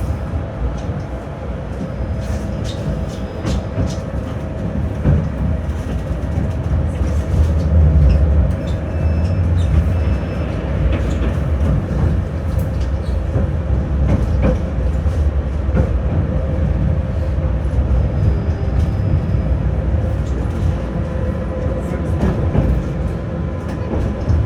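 Tram running between stops, heard from inside the car: a steady low rumble of wheels on rail with scattered clicks and knocks and a steady motor tone. The rumble swells to its loudest about eight seconds in.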